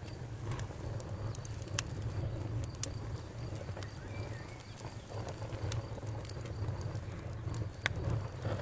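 Campfire burning, with irregular sharp crackles and pops of burning wood every second or so over a low steady rumble.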